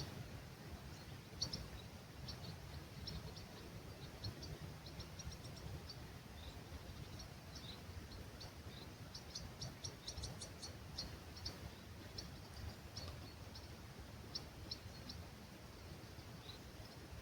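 Small songbirds chirping at dawn: short, high chirps repeated again and again, thickest about ten seconds in, over a faint low rumble.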